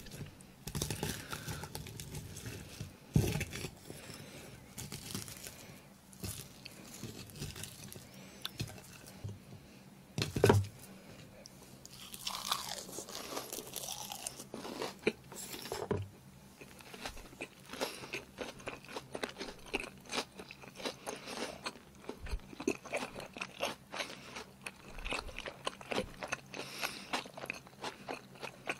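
Close-up mouth sounds of chewing a pan-fried sea-worm pancake (jeon), crunching and smacking, with small clicks of chopsticks working the food on a ceramic plate. Two louder knocks stand out, about three and ten seconds in.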